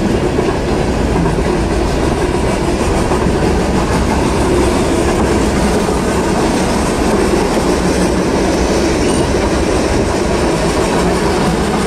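Freight train of covered hopper cars rolling past at close range: steady, loud noise of steel wheels running on the rails.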